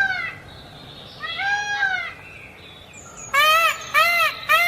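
Green peafowl calling: one loud arching call about a second and a half in, then a fast run of short, repeated arching calls from about three seconds in.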